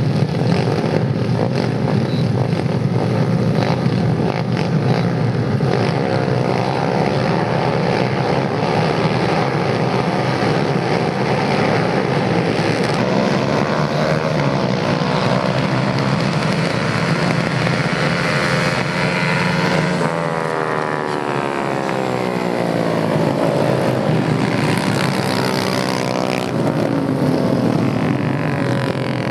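Several racing motorcycle engines running hard together in a steady, loud din. Their pitch rises and falls as they rev, shift and pass.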